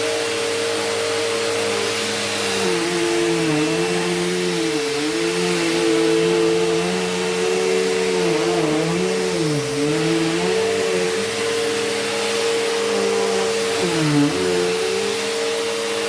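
Bissell CleanView Rewind Pet upright vacuum cleaner running: a steady motor whine with a lower tone that dips in pitch and recovers several times.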